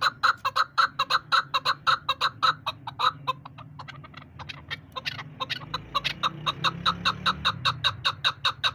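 Chukar partridge calling: a fast, even run of short clucking chuk notes, about five a second. The notes break off a little over three seconds in and pick up again about two seconds later.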